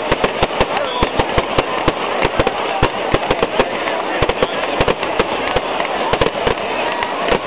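Fireworks going off: a rapid, irregular string of sharp bangs and crackles, several a second, over the murmur of a crowd.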